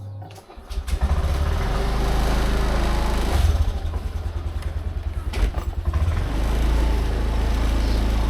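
Motorcycle engine comes up loudly about a second in and runs with a pulsing low note, its pitch shifting around three and six seconds in as the bike gets under way.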